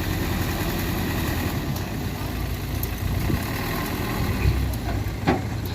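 Light dump truck's diesel engine running steadily, with a couple of short knocks near the end.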